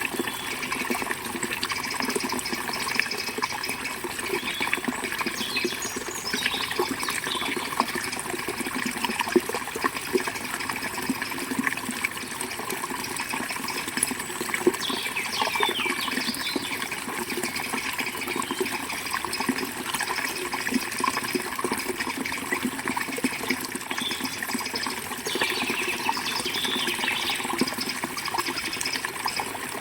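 River water flowing steadily, with birds chirping in short bursts several times over it.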